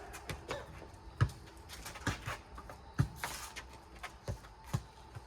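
Four square ball in play: a rubber playground ball bouncing on the ground and being struck by hands, a string of sharp thuds about once a second.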